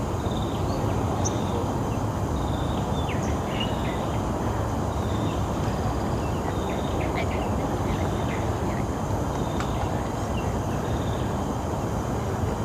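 Birds chirping, with many short, sharp calls scattered throughout, over a steady low rumble of outdoor noise.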